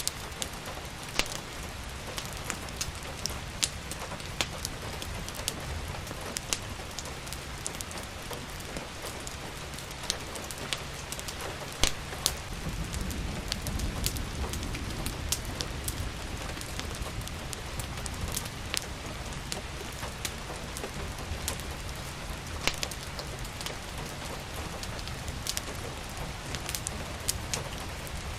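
Steady rain with scattered sharp crackles and pops of a wood fire burning in a fireplace. A low rumble swells for a few seconds near the middle.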